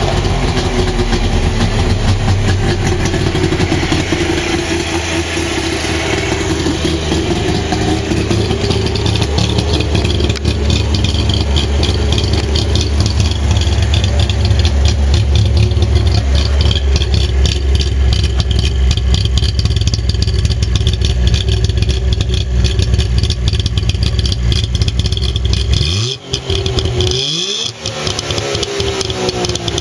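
FSM Syrena 105's 842 cc two-cylinder two-stroke engine running near idle with a two-stroke burble, its revs wandering up and down. The level drops briefly twice near the end.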